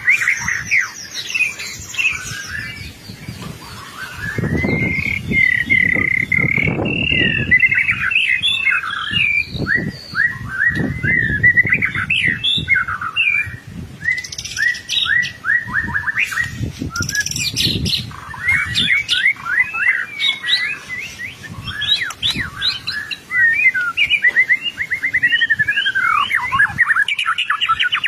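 White-rumped shama (murai batu) singing vigorously without pause: a long, unbroken stream of rapid, varied whistled phrases and trills.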